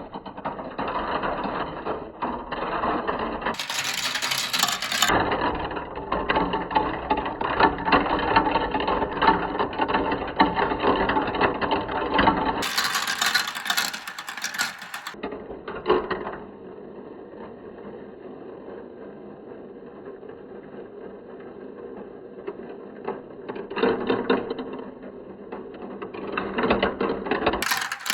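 Marbles rolling and clattering down a plastic Kumikumi Slope marble run, a dense rattle of rapid clicks. The rattle thins to a quieter roll for several seconds past the middle, then thickens again near the end.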